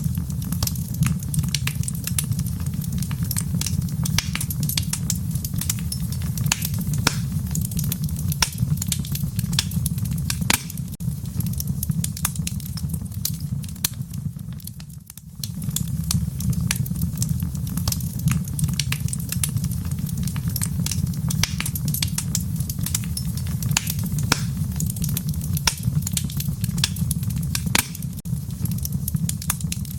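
Wood fire crackling, with frequent sharp pops and snaps over a steady low rumble of burning; the sound dips briefly about halfway through.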